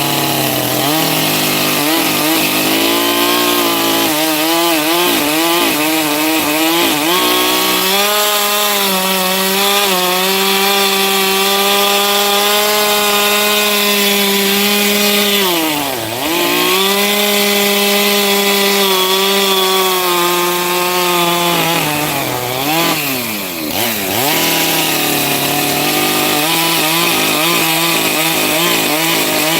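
Chainsaw cutting firewood, the motor running steadily under load with a pitch that wavers as it cuts. About sixteen seconds in, and again around twenty-three seconds, the pitch drops and then climbs back up as the throttle eases off and opens again.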